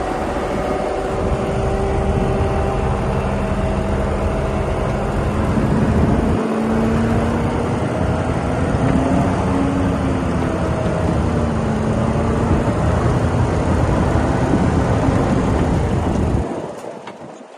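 Heavy diesel engine of an earthmoving machine running steadily under load, its pitch drifting slightly up and down. The sound drops away abruptly near the end.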